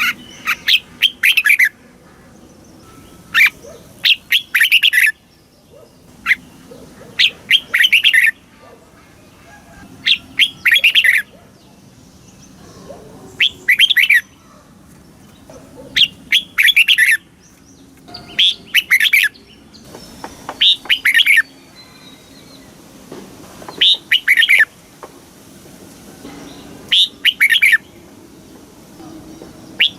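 Red-whiskered bulbul singing: short, loud, warbled phrases repeated about every two to three seconds.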